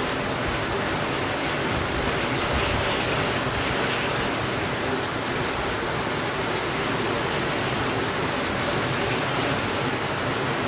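Steady rainfall: a dense, even hiss of rain with faint scattered drop taps in it.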